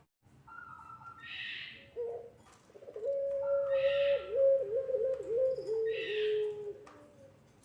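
Puter pelung dove cooing: a short low note about two seconds in, then one long coo of about four seconds that wavers and dips in pitch several times before stopping. Short, higher chirping calls sound in between.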